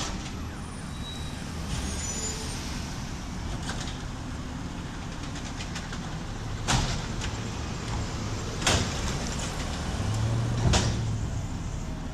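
Garbage truck engine running steadily, with three sharp knocks about two seconds apart in the second half.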